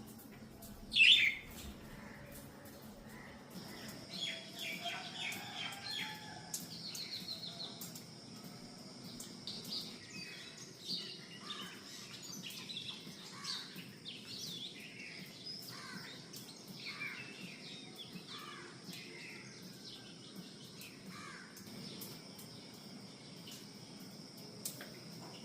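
Songbirds chirping and calling in a morning chorus, with one loud, sharp call about a second in and then many overlapping short chirps and trills. A steady high-pitched insect buzz joins a few seconds in and carries on under the birds.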